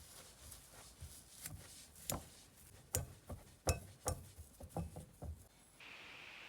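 Kitchen utensils and dishes being handled: an irregular run of light knocks and clinks for about five seconds, then a steady hiss starts near the end.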